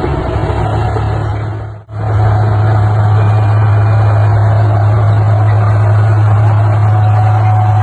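Heavy diesel engine of earthmoving machinery running steadily with a deep, even hum. It dips out briefly about two seconds in, then resumes at the same steady pitch.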